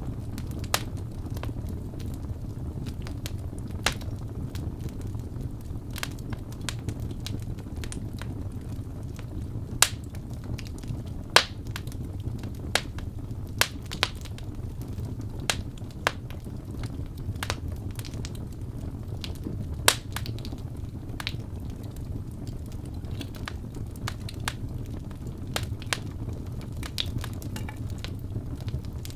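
Fireplace burning: a steady low rumble of the fire with irregular sharp crackles and pops from the wood, a few louder snaps among them.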